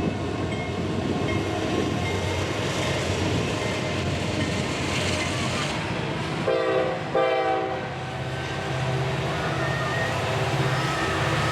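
Diesel locomotive running with a steady low engine rumble; about six and a half seconds in, its multi-chime air horn sounds two short blasts.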